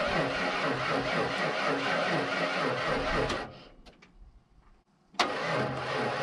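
Starter cranking the 1992 Ford F150's 302 V8, which turns over without catching. The cranking stops a little past halfway; after a pause of under two seconds there is a sharp click and it cranks again.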